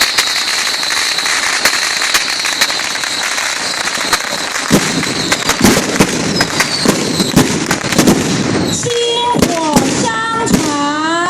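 Daytime fireworks crackling: a dense, continuous run of sharp cracks and bangs over a hissing background. Near the end, a pitched sound rises and falls over the crackle.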